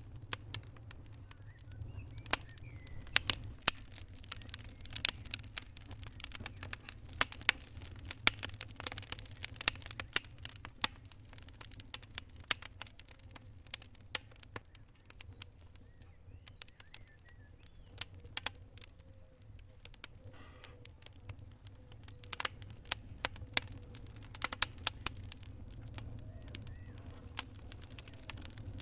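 Wood fire crackling: irregular sharp pops and snaps over a low steady rumble. The pops come thick for stretches and thin out for a few seconds midway.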